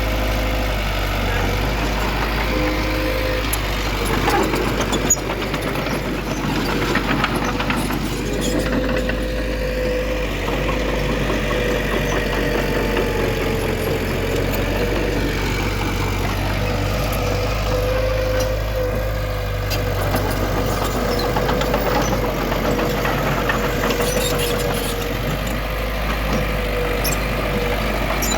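Diesel engine of heavy earthmoving machinery running steadily, with a few sharp knocks about four to five seconds in.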